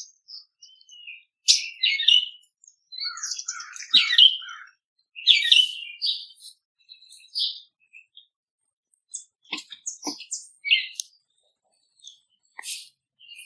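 Wild songbirds chirping and calling in short, quick notes with gaps between them, and two faint clicks about two-thirds of the way through.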